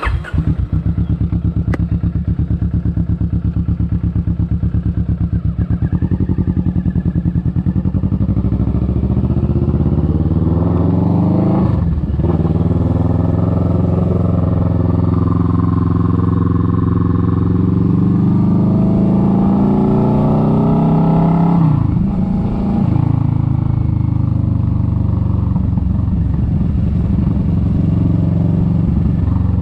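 Kawasaki Vulcan S 650's parallel-twin engine starting up, idling, then pulling away: the revs climb, break at a gear change about twelve seconds in, climb again and drop sharply about twenty-two seconds in, then run steadily.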